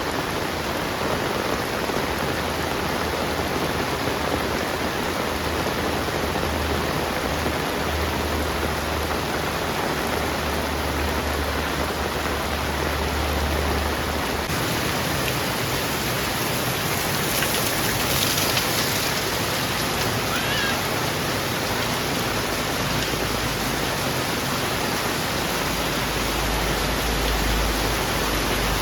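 Heavy rain falling steadily: a dense, even hiss of rain on surfaces that does not let up, brightening briefly about two-thirds of the way in.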